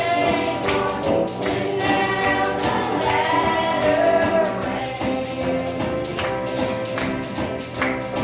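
Children's choir singing a gospel song, with a tambourine keeping a steady beat.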